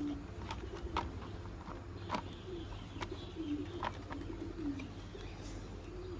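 Soft, repeated low cooing of a bird, with several short sharp clicks of plastic toy-car parts being handled.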